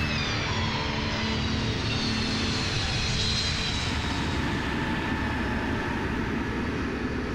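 Lockheed C-5 Galaxy's four turbofan engines running during its landing: a steady jet rush with high whines, one falling in pitch in the first second.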